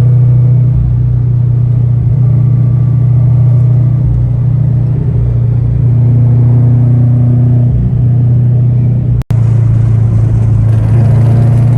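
Car engines and exhausts running with a loud, steady low rumble as cars move out. The sound cuts out for an instant about nine seconds in.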